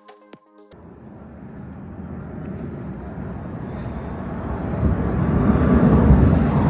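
Electronic music cuts off under a second in. Outdoor city ambience follows: a low rumbling noise that grows steadily louder over several seconds.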